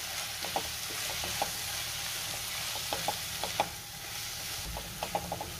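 Onion-tomato masala with powdered spices sizzling in hot oil in a non-stick kadhai while a silicone spatula stirs it, giving a steady sizzle with scattered soft scrapes and taps of the spatula on the pan.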